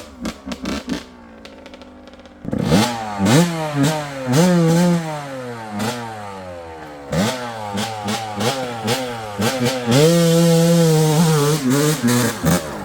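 Yamaha YZ125 single-cylinder two-stroke engine. For the first couple of seconds it runs low, with a few knocks. It then revs hard in repeated rising and falling surges under the rider's throttle, and holds high revs for about a second and a half near the end.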